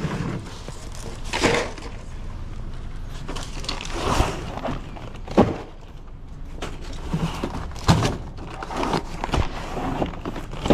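Scattered knocks and thuds, about six spread over several seconds, from cases of soft drinks being handled and stacked on a hand truck during a delivery unload.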